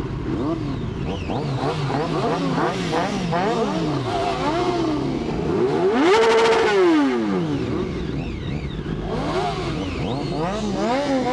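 Several sport motorcycle engines revving in repeated, overlapping throttle blips. About six seconds in, one engine is held high briefly, then falls away.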